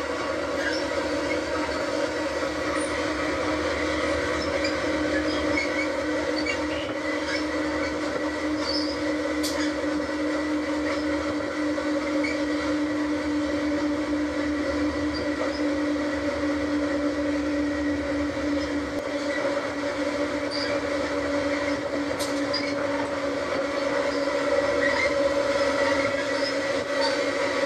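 A train running steadily, with a constant engine drone and scattered light clicks and rattles.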